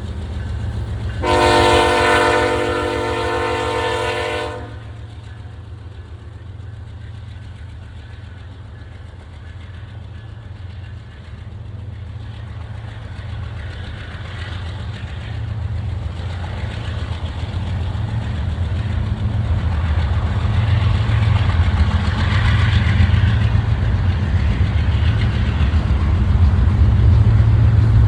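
BNSF diesel locomotive air horn sounding one long blast of about three seconds, a chord of several notes. Then the low, steady rumble of the freight train's diesel engines grows louder as it draws near, with wheel noise on the rails.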